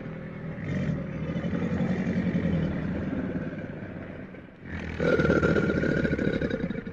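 Crocodiles growling: a long, rough, rumbling growl with a fast pulsing rattle in it. It fades about four and a half seconds in, and a second, louder growl starts about half a second later.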